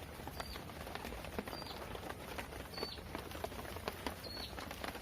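A small bird gives a short, high chirp about once a second, four times, over scattered light ticks and pattering.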